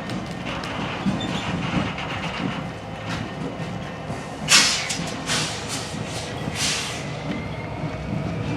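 Train rolling past, its wheels clattering over the rails. There are three short, loud bursts of hiss around the middle, and a faint rising whine near the end.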